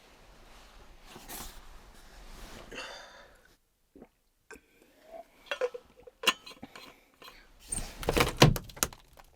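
Soft breathy rustling, then after a short break a string of clicks, clinks and knocks from objects being handled, the loudest cluster about eight seconds in.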